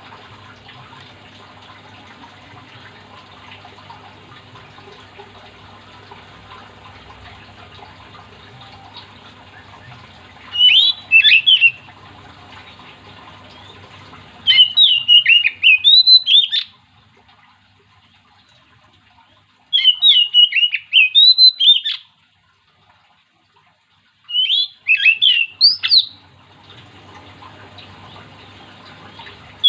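Oriental magpie-robin (kacer) singing in full voice: four loud bursts of quick, sweeping notes, each lasting one to two seconds, starting about ten seconds in. A steady low hum fills the first ten seconds.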